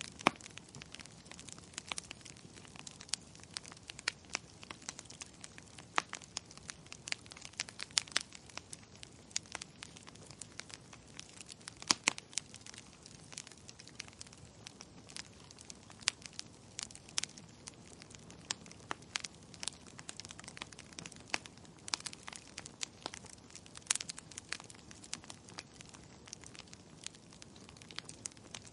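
Wood fire crackling: irregular sharp pops and snaps over a faint low rush of burning.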